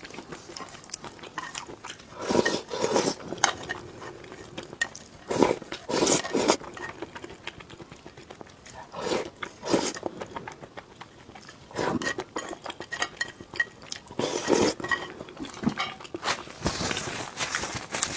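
Close-miked eating: a person biting and chewing food, in short clusters of wet clicks every few seconds.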